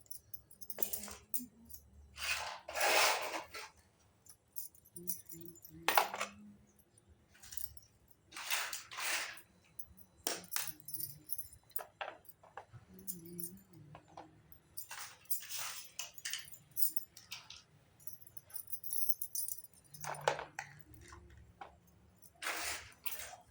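Miniature Hello Kitty toy kitchen pieces being handled and unboxed: irregular light clinks and short rustling scrapes, several of them within a few seconds.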